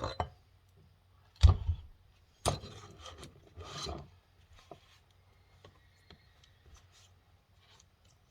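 Metal parts of a tractor's front final drive knocking and scraping as the shaft is worked out of the housing: two sharp clunks about a second apart, then a scraping slide, then a few faint clicks.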